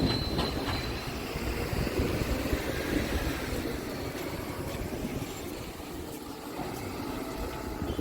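Scania R500 tractor unit on the move: a steady rumble of its 13-litre six-cylinder diesel mixed with road and wind noise and a few light knocks. It opens with a loud knock and a brief ringing tone that fades within the first second.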